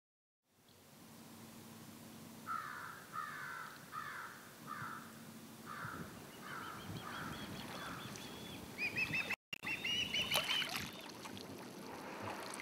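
Birds calling, beginning with a run of about eight evenly spaced, falling calls, then a higher-pitched series of calls from another bird.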